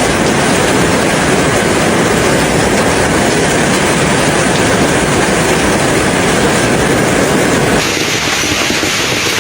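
Loud storm noise: a dense, steady rush with a fine pattering texture, like hail and wind hitting at once. About eight seconds in it abruptly turns slightly quieter and duller.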